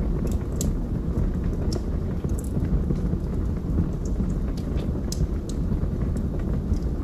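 Wood fire burning in a fireplace: a steady low roar of flames with scattered sharp crackles and pops from the burning logs.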